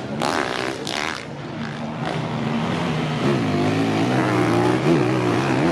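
Enduro motorcycle engine revving hard on a steep dirt hill climb, its pitch rising and dipping again and again as the rider works the throttle.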